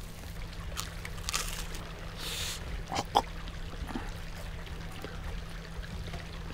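Crisp tempura being bitten and chewed: a few short crunches, then two sharp clicks about three seconds in, over the steady trickle of a stream.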